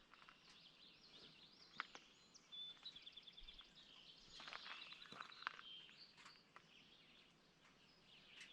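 Faint songbirds singing, with scattered chirps and two quick trills of evenly repeated high notes.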